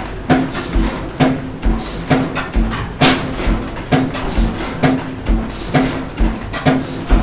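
Gardner heavy oil stationary engine running slowly, with a heavy thud about once a second and lighter clattering knocks between the beats. There is one sharp click about three seconds in.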